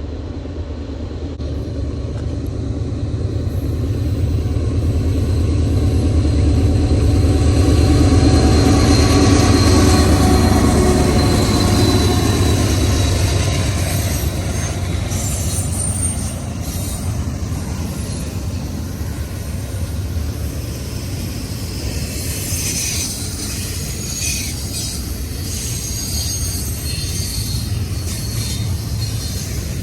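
Long CN freight train rolling past: a low rumble of the rail cars with wheel squeal and clatter, swelling to its loudest about ten seconds in, then easing to a steady roll.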